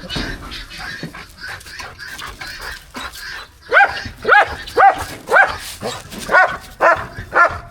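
A dog barking over and over, about two barks a second, starting a little over three seconds in after some low rustling.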